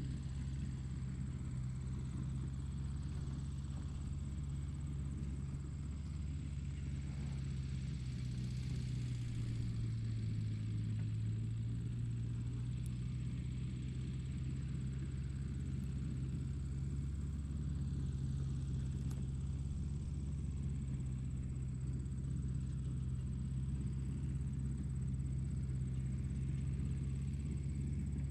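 Tractor engine running steadily with a deep, even hum; about ten seconds in its pitch sags briefly, as under load, then recovers.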